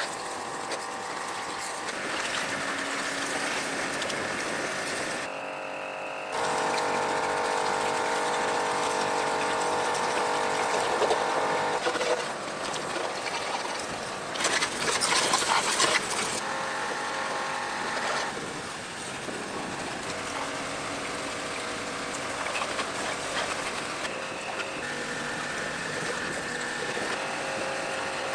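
Electric pressure washer running, its motor whirring under the hiss of the water jet as mud is sprayed off a motorcycle. The spray drops out briefly about five seconds in, then resumes louder, with a harsher surge of spray in the middle.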